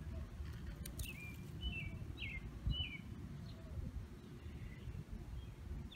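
Small birds chirping in short, pitch-bending calls, over a steady low rumble, with one dull bump about halfway through.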